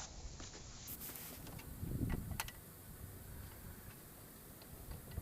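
Faint ticking and light handling clicks, with one sharper click about two and a half seconds in, as a new spin-on oil filter is turned onto the engine by hand.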